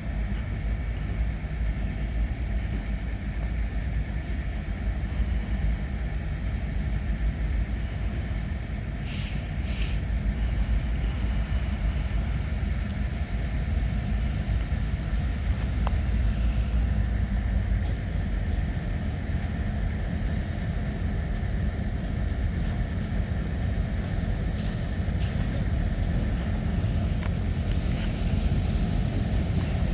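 Diesel locomotive running with a steady low rumble.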